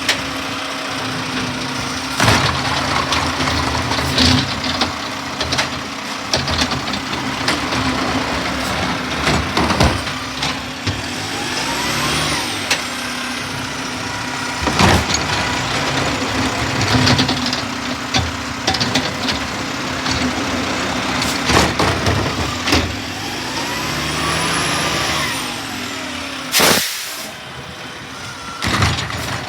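Garbage truck running steadily, with repeated clanks and knocks throughout and a short, loud blast of noise near the end.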